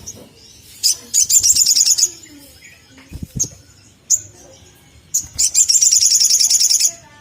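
Sunbird calling: sharp, high single 'cuit' chirps and two rapid, high-pitched trills. The first trill comes about a second in and lasts under a second; the second, longer one starts about five and a half seconds in and runs for about a second and a half.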